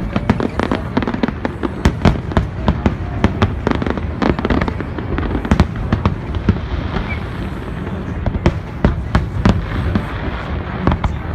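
Aerial fireworks display: a dense, irregular string of bangs and crackles over a continuous low rumble.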